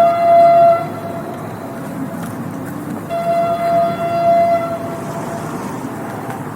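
Train horn sounding: a blast that ends just under a second in, then a second steady blast of about two seconds, over the continuous rumble of the passing train.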